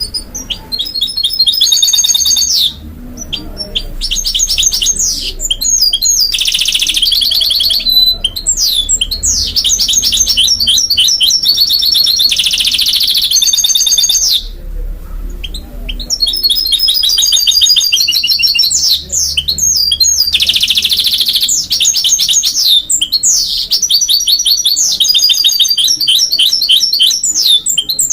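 Goldfinch × canary hybrid (mule) singing a long, loud song of fast trills and twittering notes, with short pauses about three seconds in and about halfway through.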